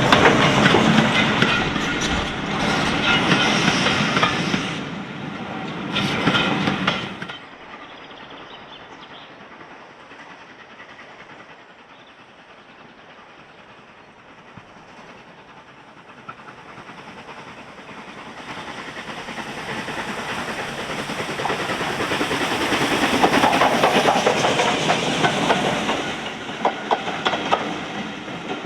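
A train passing close by, its wheels clattering over the rail joints; this sound cuts off abruptly about a quarter of the way in. A train is then heard approaching, building to its loudest about two-thirds through, with the wagons' wheels clattering past near the end.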